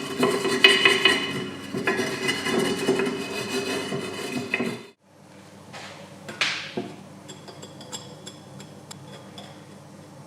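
Engine parts being worked by hand: dense scraping and rubbing for about five seconds, which cuts off suddenly. Then a brief whoosh and light metallic clicks and clinks.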